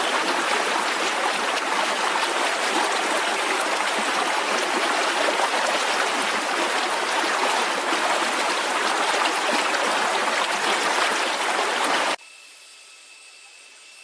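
Running water, a steady rushing hiss, that cuts off abruptly about twelve seconds in, leaving a faint steady background.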